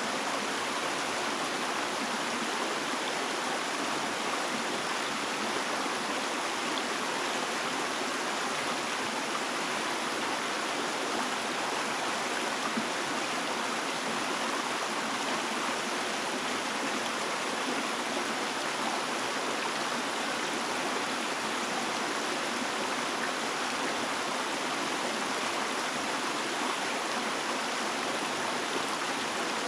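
Running water, a steady even rush with no breaks.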